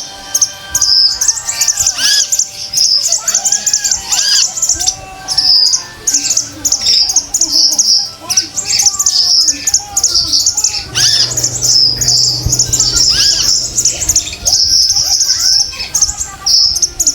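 Female konin (olive-backed sunbird) calling: dense, rapid high-pitched chirping and twittering with many short arched whistled notes, a lure recording meant to stimulate male konin to sing.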